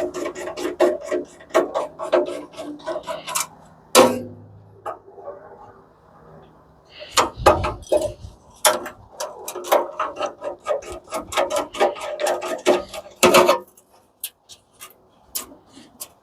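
Clicks, scrapes and knocks of hand tools and metal parts being worked during the teardown of an industrial coffee machine, starting with a quick run of sharp clicks, with a heavy thud about halfway through and a sharp knock later on.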